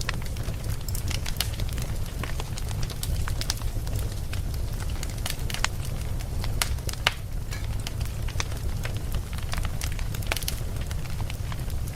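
Wood campfire crackling, with frequent irregular sharp pops and snaps over a steady low rumble of the flames.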